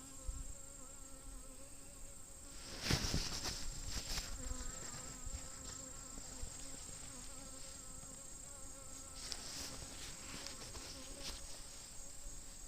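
Honeybees buzzing around an open hive: a steady, slightly wavering hum. A few short knocks and rustles break in, the loudest about three seconds in.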